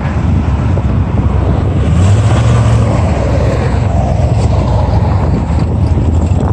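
Vehicle engine running with a steady low rumble that grows a little louder about two seconds in.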